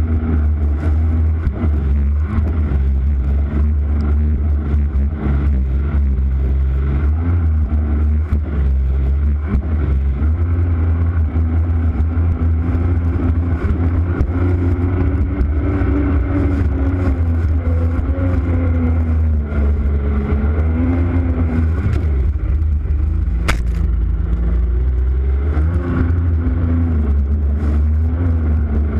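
A vehicle engine running steadily under way, its pitch drifting up and down with the throttle, over a heavy low rumble of wind on the action camera's microphone. A single sharp click about two-thirds of the way through.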